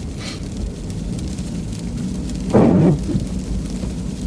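Steady low road and engine rumble inside a truck cab on an icy, snow-covered road, with one loud, short thump about two and a half seconds in as the front wheels jolt and slip slightly to the left.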